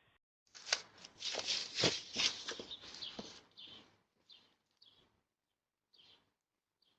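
About three seconds of dense noise with several sharp knocks, followed by four short high chirps from a small bird, spaced about a second apart.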